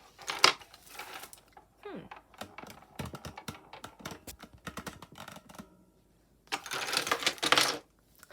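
Small objects being handled and set down on a desk: scattered clicks and knocks, with a burst of rustling about six and a half seconds in.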